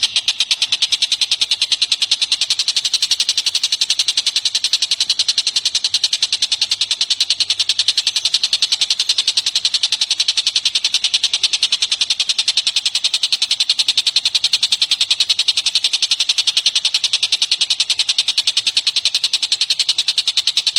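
A bird-song training recording: a songbird chatters in an unbroken, rapid trill of sharp, high-pitched repeated notes.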